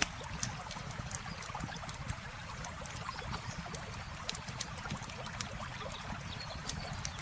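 Campfire crackling with frequent sharp, irregular pops over the steady rush of flowing river water.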